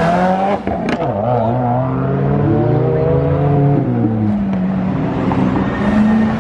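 Car engine accelerating as it drives off, its pitch dipping about a second in, climbing for a few seconds, then falling and holding steady.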